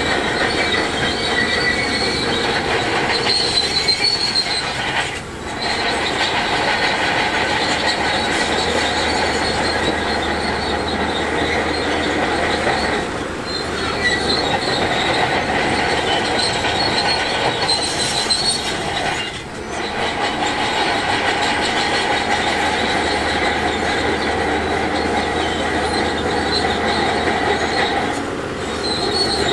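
Heavy earthmoving machinery at work: a diesel engine running under load, with a steady high-pitched metallic squeal over it. The sound dips briefly a few times.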